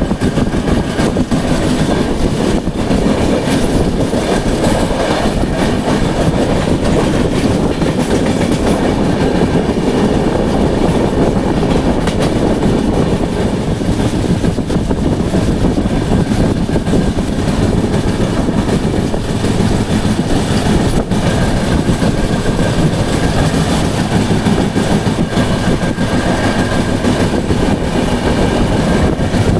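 Express passenger train running steadily at speed, its wheels clattering over the rail joints with a continuous rumble.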